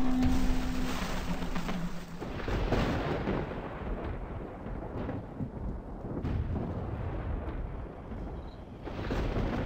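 Thunder rumbling and rolling, swelling and fading several times.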